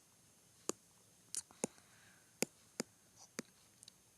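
Small objects being handled and set down: a scattered series of short, sharp clicks, about eight to ten of them, over faint room tone.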